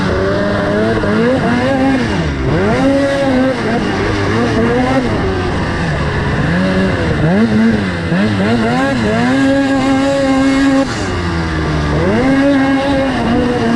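Two-stroke 600 race snowmobile engine revving hard and backing off again and again, its pitch climbing, holding and dropping every few seconds as the throttle is worked around the track.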